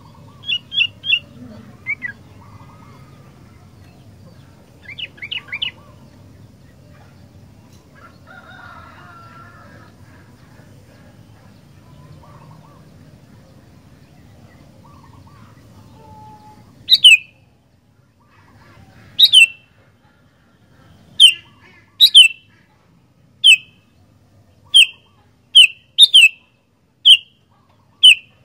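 Sooty-headed bulbul (kutilang) calling: a few quick chirps in groups of three in the first seconds, then, from about two-thirds of the way in, loud short notes that drop in pitch, repeated about once a second.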